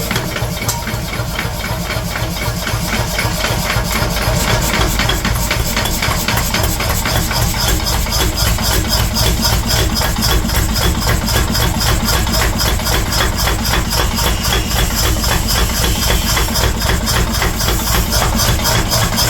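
A metalworking machine running with a fast, even rhythm of strikes, several a second. It grows a little louder over the first few seconds, then holds steady.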